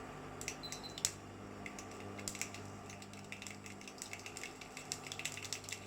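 Mustard seeds spluttering in hot sesame and mustard oil: rapid, irregular small pops and crackles that grow denser after about two seconds, over a faint steady hum.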